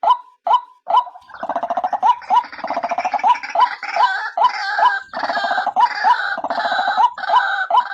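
Female white-breasted waterhen calling: a short note repeated about twice a second. About a second in, a dense, rapidly pulsing gurgling croak joins it and runs until just before the end. This is a trappers' lure call for drawing in waterhens.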